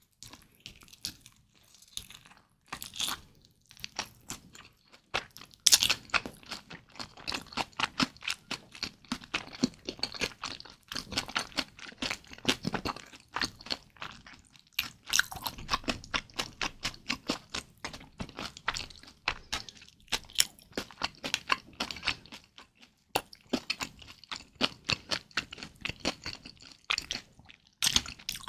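Close-miked eating sounds: kimchi dumplings being bitten and chewed, with many quick crunchy, wet clicks and a few short pauses between mouthfuls.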